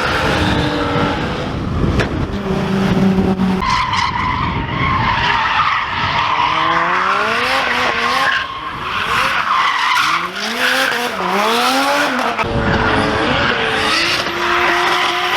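Drift car engine revving hard, its note climbing and dropping repeatedly from about six seconds in, over tyres squealing in a slide.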